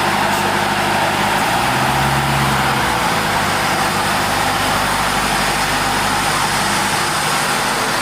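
A car engine idling steadily, with a brief deeper tone about two seconds in.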